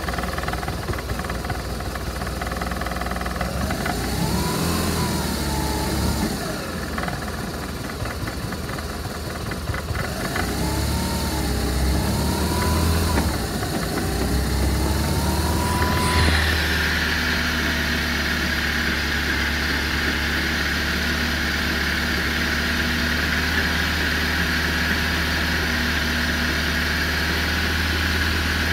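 BMW R1200RT boxer-twin engine running in gear, its rear wheel turning freely: the revs rise and fall for several seconds, then hold steady in second gear for the rest.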